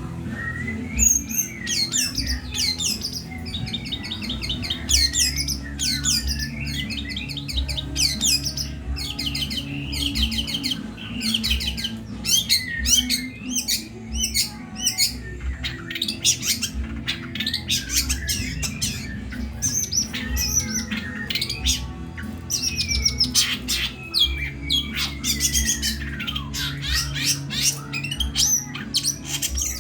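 Long-tailed shrike (cendet) singing continuously in full voice, a fast jumble of trills, chatters and harsh squawks with sweeping notes. It is a mimicry-laden song imitating other birds such as the grey-cheeked bulbul (cucak jenggot), house sparrow and fighting lovebirds. A steady low hum runs underneath.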